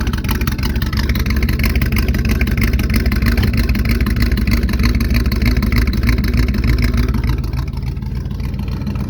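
1971 Chevy C10 pickup engine running just after a choked cold start at 22°F, held at a raised speed, then settling lower and quieter about seven seconds in.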